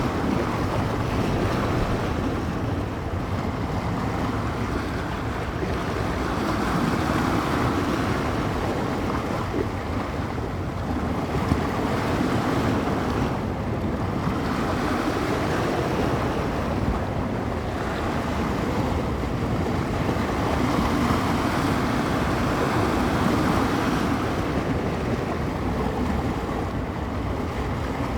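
Small bay waves washing onto the shore in slow swells every few seconds, with wind buffeting the microphone.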